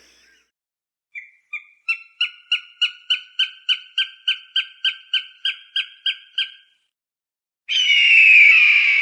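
Falcon cries: a fast series of about eighteen short, sharp calls, about three a second and growing louder at the start, then after a pause a long, harsh scream that falls slightly in pitch near the end.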